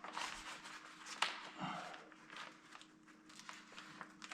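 Rustling and crinkling of a vinyl decal being peeled from its backing and transfer tape, with light taps, over a faint steady hum. A louder crackle of the sheet comes about a second in.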